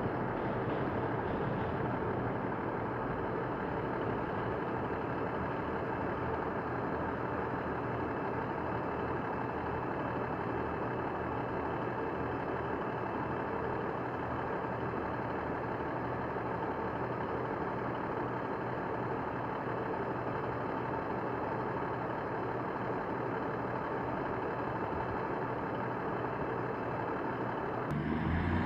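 Diesel multiple unit's underfloor engine idling steadily at a station platform. The engine note swells near the end as the train starts to throttle up.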